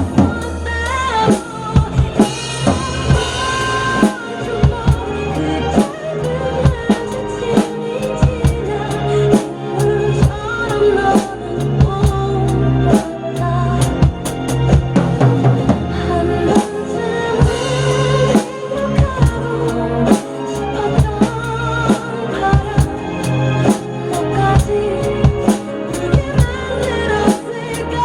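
Drum kit played along with a recorded pop ballad: bass drum and snare strokes on a steady beat over the song's sung vocal and accompaniment.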